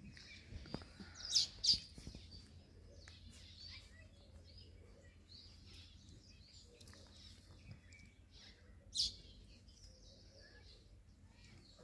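Wild birds chirping and calling over a low background hum, with a few louder short, sharp sounds about one and a half seconds in and again about nine seconds in.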